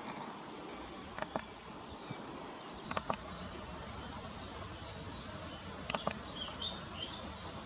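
Outdoor background with a few faint, short, high bird chirps and several brief sharp clicks.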